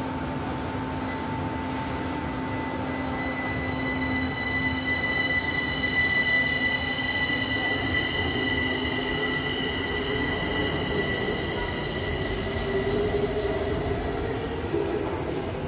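Kaohsiung Metro Red Line train running through a station, with a steady high whine of several stacked tones that comes in after a couple of seconds and fades out near the end, over the rushing noise of the train.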